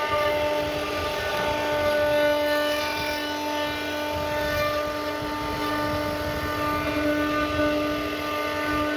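CNC router carving wood: the spindle runs with a steady, unchanging whine over the noise of the cutter.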